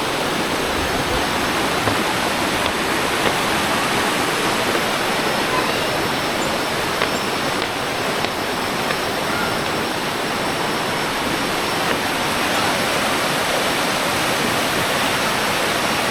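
Steady, loud rush of a rocky jungle river running over small cascades.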